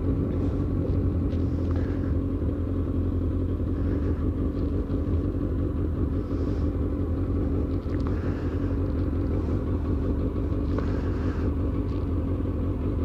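Suzuki motorcycle engine running steadily at a constant low rpm, a continuous low rumble with no revving.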